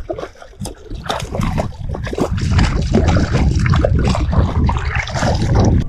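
Water splashing and sloshing in many short irregular splashes, over a heavy low rumble of wind buffeting the microphone that swells about a second and a half in.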